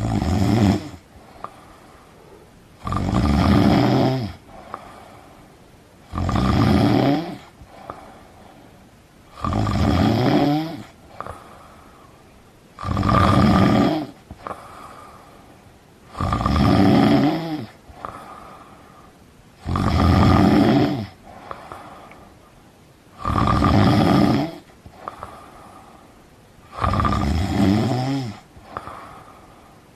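A person snoring in deep sleep: nine loud, rattling snores, each about a second long, coming regularly about every three and a half seconds with quiet breathing in between.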